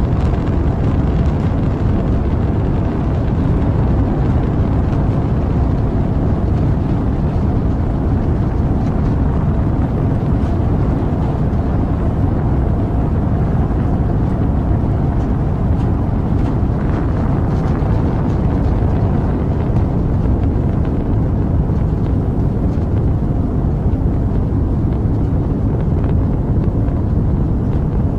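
Rocket engine rumbling at launch: a steady, loud, deep rumble that holds level without rising or falling.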